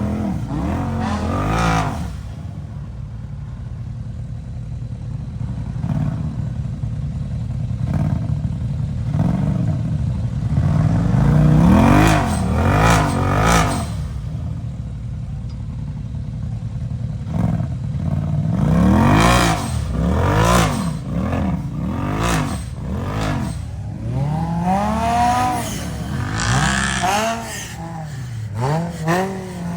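Side-by-side UTV engine revving in repeated throttle bursts, its pitch climbing and dropping again and again while crawling over rock. Scattered knocks and scrapes run through the middle and later part.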